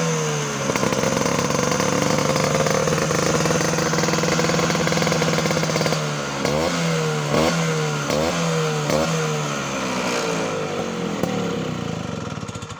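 Vespa scooter engine running through an AMP Racing aftermarket exhaust with an aluminium silencer and stainless tip. It is held at steady revs for about five seconds, then blipped sharply about five times in quick succession before settling back toward idle.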